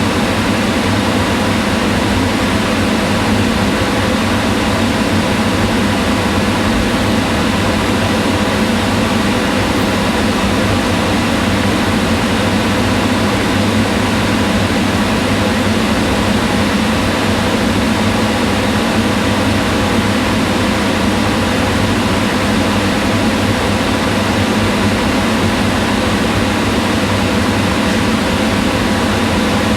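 Kitchen range hood exhaust fan running steadily: an even rush of air over a low motor hum, with a few faint steady tones above it.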